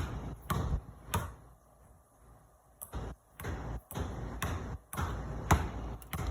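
Parachute firework shells launching: a series of sharp thumps at uneven intervals, about nine in all, the loudest a little over five seconds in.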